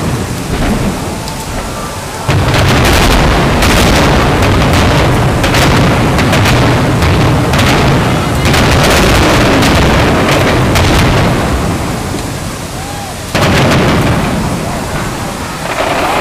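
Aerial fireworks shells bursting in rapid succession: a loud, dense run of booms and crackles. A fresh barrage starts abruptly about two seconds in, eases off after about twelve seconds, and another starts near the end.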